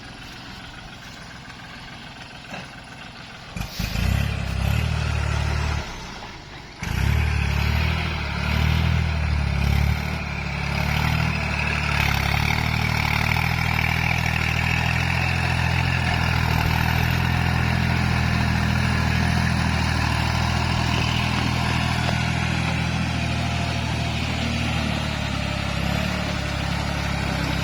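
Kubota tractor's diesel engine comes in loud about four seconds in, cuts out briefly around six seconds, then runs steadily at a constant speed.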